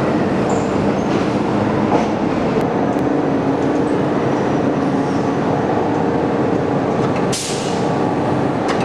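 Passenger train running: a steady, loud rumble with faint steady tones, and a brief hiss about seven seconds in.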